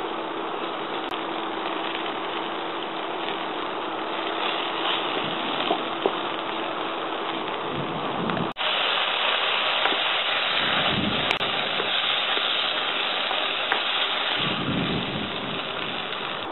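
Battered banana pieces frying in hot oil in a wok, a steady sizzling hiss with a few faint clicks. About eight and a half seconds in the sound drops out for a moment, then the sizzle comes back louder and brighter.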